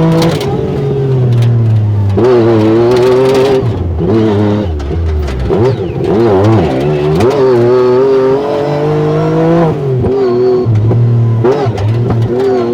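Yamaha 1000R side-by-side UTV engine running under load, its pitch climbing and falling again and again as the throttle is opened and let off.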